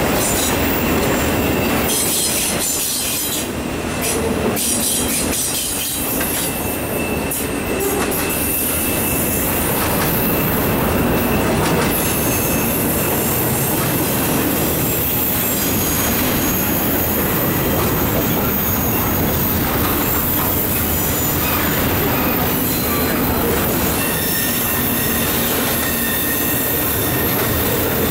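Long freight train of autorack and double-stack container cars rolling past close by: a continuous steel-wheel-on-rail rumble and clatter. Thin, steady high-pitched squeals from the wheels run over it.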